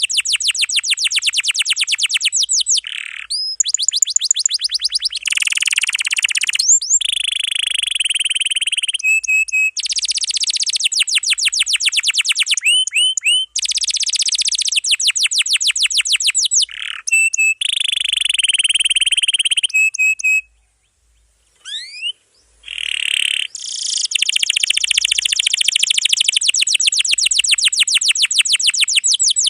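Domestic canary singing loudly in long rolls: fast trills of rapidly repeated high notes, strung into phrases a few seconds long, with a brief pause a little past two-thirds of the way through.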